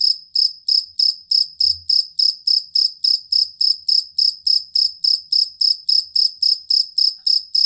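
Cricket (jangkrik kalung, a field cricket) singing a steady, even series of high chirps, about four a second.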